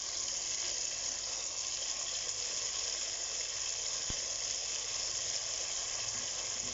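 Chicken pieces frying in hot spiced oil with a dollop of yogurt just added, a steady sizzle.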